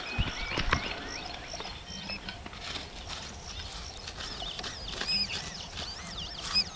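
Wild birds singing high, warbling, whistled phrases, most of them in the second half. A couple of sharp clicks come within the first second.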